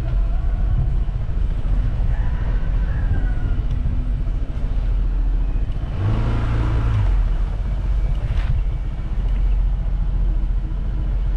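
Motor vehicle running along a road, a steady low rumble, with a louder swell about six seconds in.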